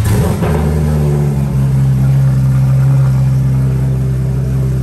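Porsche 911 GT3 RS flat-six catching on start-up with a loud flare, then settling over a second or so into a steady, high idle.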